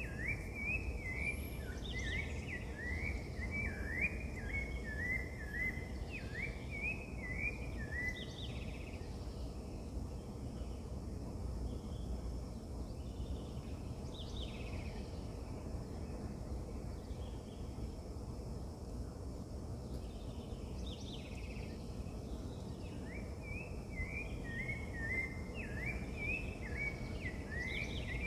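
Wild birds calling: rapid runs of short rising chirps for the first several seconds and again near the end, with scattered single calls in between, over a steady low background rumble.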